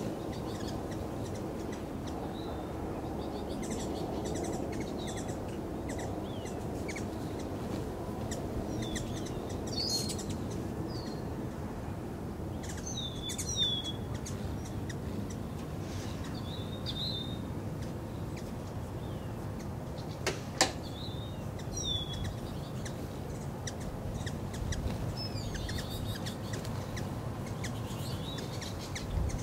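Small birds giving scattered short, high chirps, some sweeping quickly downward, over a steady low background rumble. A single sharp click comes about two-thirds of the way through.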